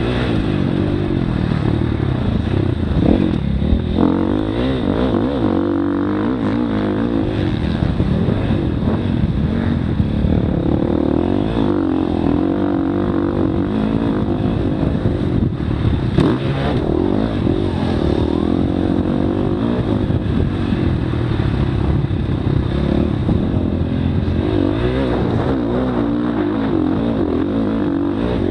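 Motocross bike engine revving up and down continuously, its pitch rising and falling over and over, with a few sharp knocks in between.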